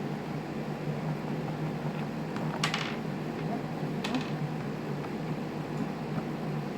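A steady low hum, with two sharp clicks about a second and a half apart from small parts and tools being handled while the trimmer head is taken apart.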